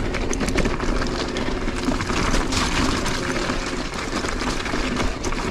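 Electric mountain bike ridden over a wet, rocky trail with water running down it: a steady rush of tyre and water noise with scattered small clicks and knocks.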